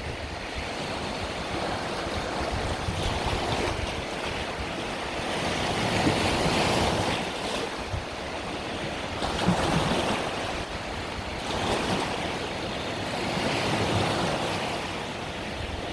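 Mediterranean sea waves breaking and washing on the shore, in slow swells every few seconds, with wind buffeting the microphone.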